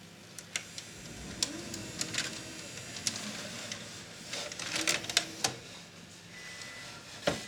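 Irregular mechanical clicks and light clatter from a video recorder being handled and worked on. A faint whir comes in about a second and a half in, and again around five seconds.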